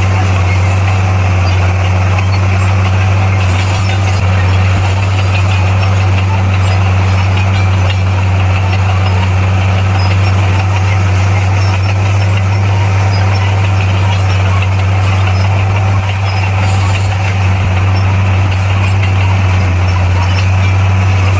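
Bulldozer's diesel engine running steadily at one unchanging pitch, a continuous low engine note throughout.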